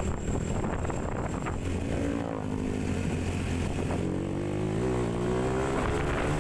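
Motorcycle engine running on the road, holding a steady note at first, then rising in pitch over the last couple of seconds as it speeds up.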